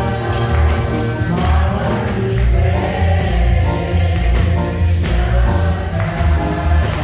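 Live gospel music: a choir or congregation singing over bass and drums, with a tambourine shaken on the beat.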